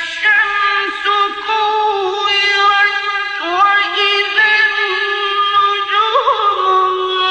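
Male voice reciting the Quran in melodic mujawwad style, drawing out one long phrase of held notes with ornamented pitch turns.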